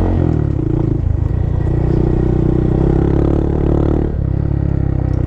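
Honda Monkey's single-cylinder four-stroke engine pulling away and accelerating, its note rising steadily and then dropping at a gear change about four seconds in.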